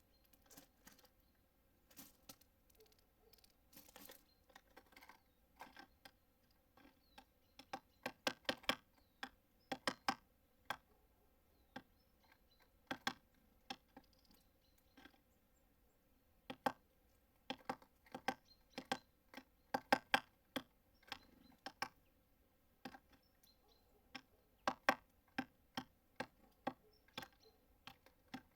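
Irregular sharp taps and clicks on a bird feeder, some in quick runs of several: small birds pecking and hammering at seeds and hopping about on the feeder.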